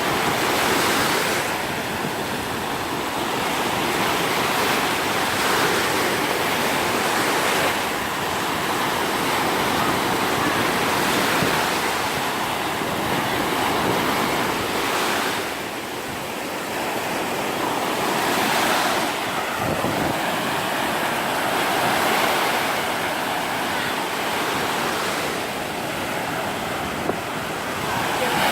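Sea waves breaking and washing up a sandy beach in steady, repeated surges every few seconds, with some wind on the microphone.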